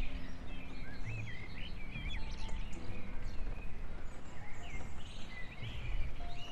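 Songbirds chirping and whistling in quick short phrases over a low outdoor background noise.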